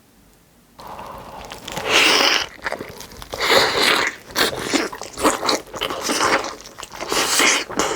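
A person biting and chewing crunchy food, starting about a second in, with loud crunching bites every second or two.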